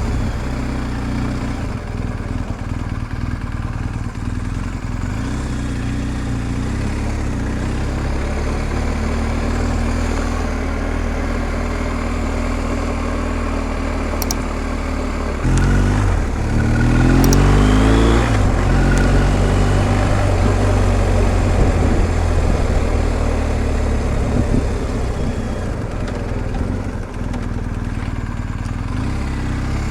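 BMW R1250 GS Adventure's boxer-twin engine running on the move. The engine note steps up about halfway through and rises in pitch for a couple of seconds as the bike accelerates, then settles back to a steady cruise.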